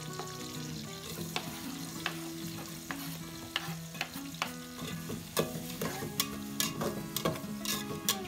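Chopped garlic, and then sliced red onions, frying and hissing in oil in a metal pot. A metal slotted spatula stirs them, clicking and scraping against the pot, with the clicks coming thicker in the second half.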